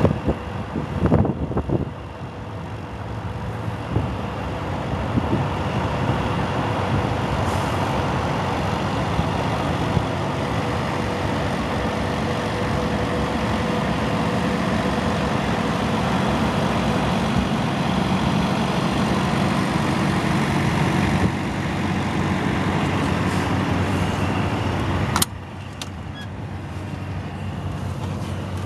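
2003 Peterbilt 379 semi truck's diesel engine running steadily, a little louder from about two seconds in. Near the end a sharp click comes and the sound drops off suddenly.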